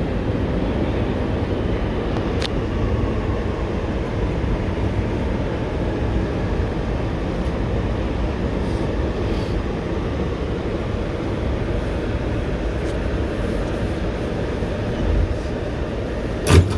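Steady rumble inside an R211T subway car, with a faint falling whine in the first few seconds. A sharp knock comes just before the end.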